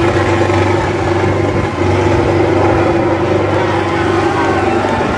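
Tractor engine running loud and steady, with a brief dip about a second and a half in.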